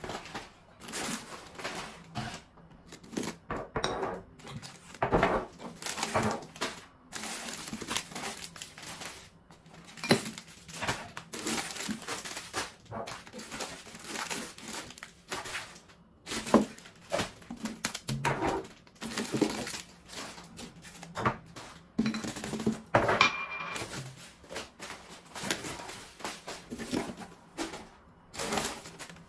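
Plastic food packets crinkling and rustling, with irregular knocks and clatter of items as a pantry drawer is emptied and sorted by hand.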